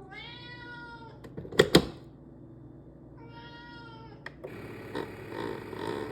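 A domestic cat meowing twice, each meow about a second long and falling in pitch, with two loud sharp clicks between the meows.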